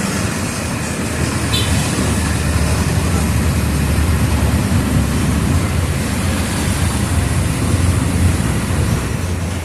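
Mercedes-Benz OF 1722M bus's diesel engine running with a steady low rumble under road and body noise.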